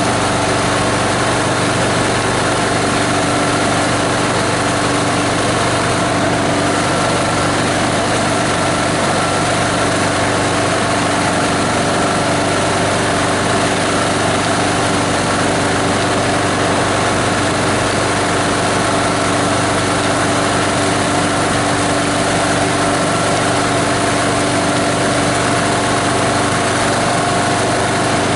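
A plastic-waste grinder's 18 HP diesel engine running steadily at constant speed.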